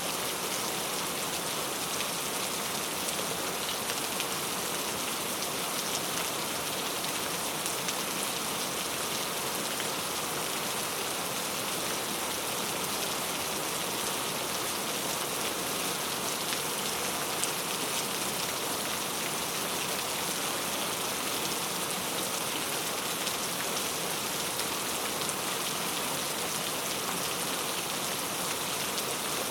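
Steady rainfall, an even hiss of rain with faint scattered drop ticks and no thunder.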